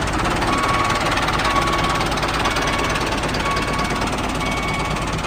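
An engine running steadily with a fast, even clatter, just after starting up.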